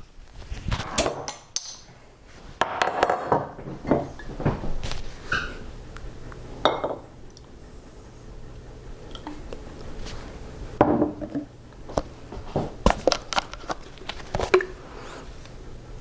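Irregular clinks, knocks and rustles of dishes, glassware and cutlery being handled and set down.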